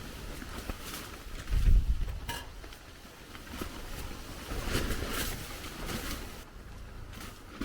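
Strong wind gusting, with a heavy rumble of wind on the microphone a little under two seconds in and a rushing gust about five seconds in.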